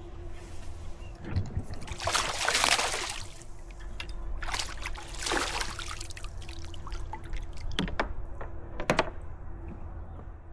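Water splashing in two bursts about two seconds apart, then a few sharp clicks near the end.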